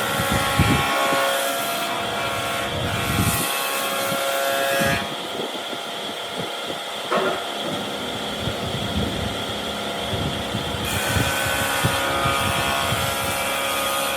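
A power tool running with a steady whine and hiss, easing off about five seconds in and growing louder again near the end.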